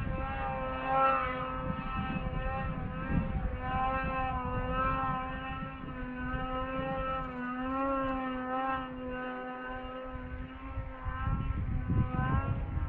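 Wind buffeting the microphone with a low rumble. Over it a steady, slightly wavering pitched hum or whistle is held without a break.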